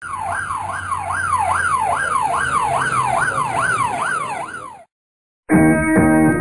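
An emergency-vehicle siren sounds in quick falling sweeps, about two a second, then cuts off suddenly a little before the five-second mark. After a short silence, guitar music starts near the end.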